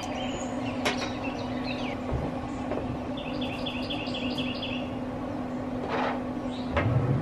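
Songbirds calling over a steady low hum: a few downward chirps about a second in, then a quick run of about seven repeated high notes in the middle, with a few light clicks.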